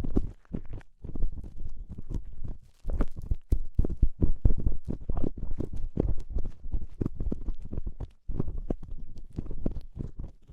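Ear-cleaning tools scraping and clicking in the ear of an ASMR microphone: close, irregular scratches and taps, heavy in the low end.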